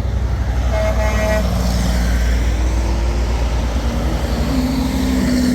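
Heavy trucks in a convoy rumbling past on their engines, with short horn toots about a second in and a longer held horn note near the end.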